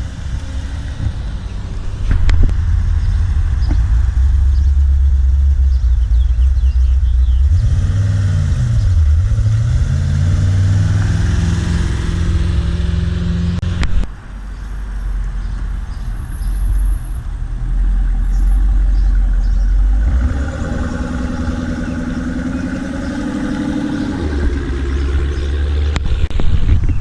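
Car engines rolling past at close range, a heavy deep rumble. Engine pitch dips and climbs again about eight to ten seconds in. The sound breaks off abruptly about fourteen seconds in, then another engine runs at a steady pitch for a few seconds past the twenty-second mark.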